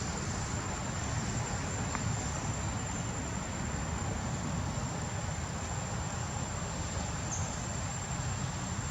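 Steady, unbroken high-pitched trill of insects over a low background rumble.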